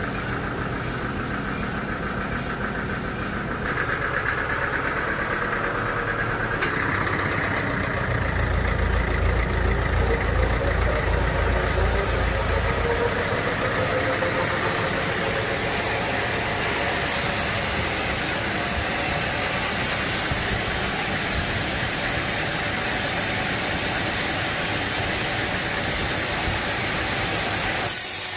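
Sawmill machinery running steadily with an engine sound, growing heavier and deeper for a few seconds in the middle, with one sharp click a little earlier.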